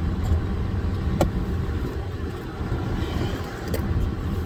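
Car running with a steady low rumble, heard close by, with two sharp clicks, one about a second in and one near the end.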